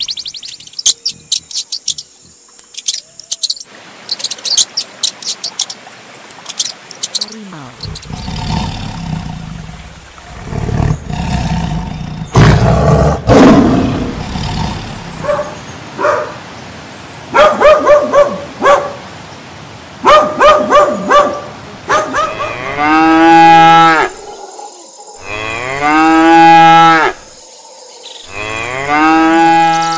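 Cattle mooing: a run of short calls followed by three long, drawn-out moos in the last third, with clicks and rumbling noise before them.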